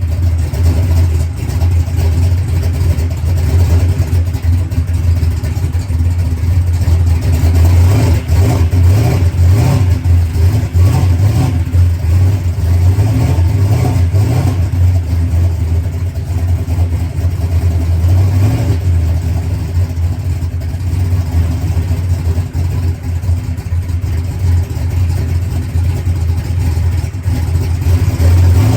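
Turbocharged drag race car's engine running at idle on its newly fitted, primed Enderle mechanical fuel pump, with small wavers in engine speed around the middle.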